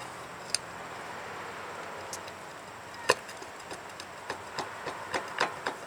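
Light clicks from a 2002 Chevy TrailBlazer's front lower ball joint as a bar levers the lower control arm: one sharp click about three seconds in, then a quickening run of clicks near the end. The joint has a little play and is getting sloppy.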